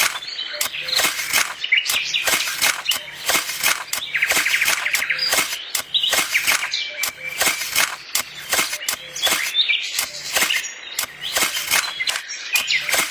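Small birds chirping and trilling, with a quick trill about four seconds in, over a run of sharp clicks and taps several times a second.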